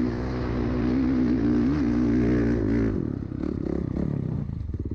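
Off-road vehicle engine running hard at high revs, its pitch wavering slightly, then easing off about three seconds in.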